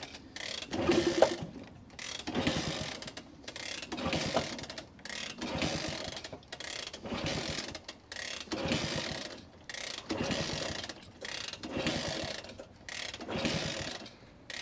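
Repeated kick-starting of a 1964 Honda C200, about ten ratcheting strokes of the kick-starter mechanism roughly every second and a half. The engine never catches. The owner suspects a clogged pilot jet or debris in the fuel line.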